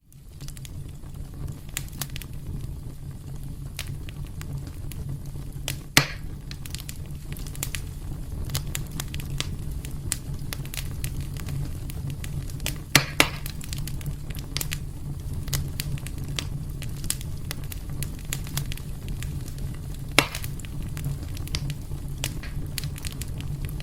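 Wood fire in a fireplace crackling steadily over a low, constant rumble of the flames, with many small ticks and three louder sharp pops, about 6, 13 and 20 seconds in.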